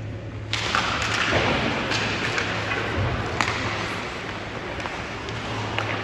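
Ice hockey play in a rink: scraping noise rises suddenly about half a second in, with several sharp clacks and thuds from sticks and puck, over a steady low hum.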